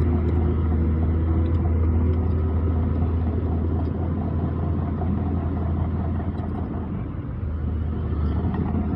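Heavy diesel earthmoving machinery running steadily with a strong low rumble, easing a little about seven seconds in.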